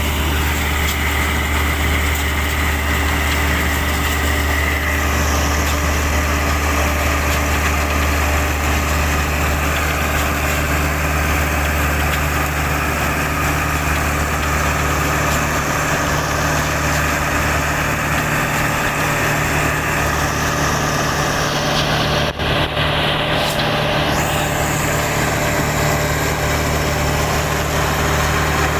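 Tractor engine running steadily at a constant speed, a low, even drone that doesn't rise or fall.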